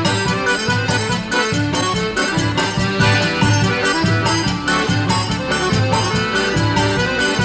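Accordion playing lively traditional quadrilha dance music over a steady beat.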